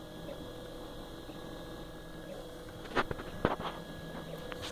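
Turnigy Fabrikator Mini 3D printer running, its motors giving a steady whine made of several held tones, with two sharp clicks about three seconds in.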